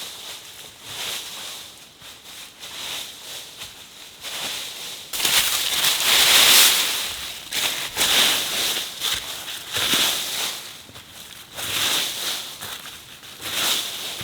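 Rustling and crunching of leaves in irregular swells, loudest about five to seven seconds in.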